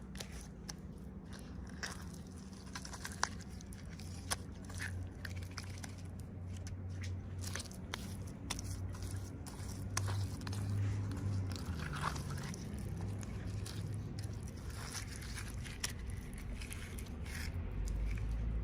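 Small clicks, crinkles and scrapes of hands opening plastic toy packaging, over a steady low hum.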